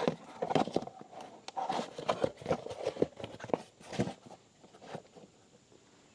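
A run of irregular knocks and light clatter, like things being picked up and handled, dying away about four seconds in.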